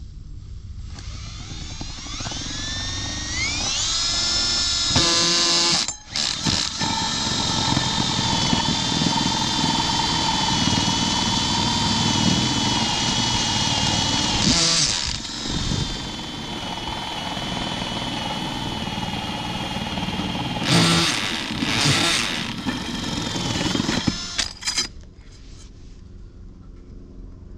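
A power tool's motor spins up with a rising whine, then runs at a steady high pitch under load for about twenty seconds, with a few sharp knocks along the way, and stops near the end.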